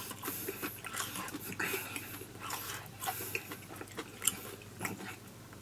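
Someone chewing food, with small irregular clicks and scrapes of chopsticks in a bowl.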